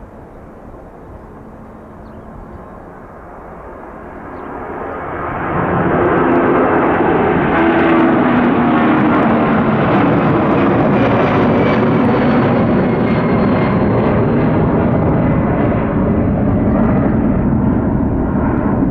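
Boeing 757-300 jetliner taking off. Its engine noise swells about four to six seconds in to a loud, steady roar, with a faint high whine that slowly falls in pitch.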